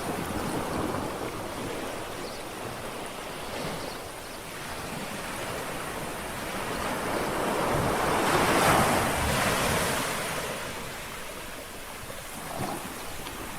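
Small sea waves lapping on the shore: a steady wash of surf that swells into one louder wave breaking about two-thirds of the way through, then eases back, with a small splash near the end.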